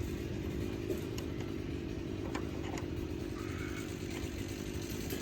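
An engine running steadily, with a few light clicks.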